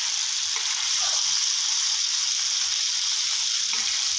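Chicken pieces sizzling in hot oil and soy sauce in a wok: a steady, high frying hiss.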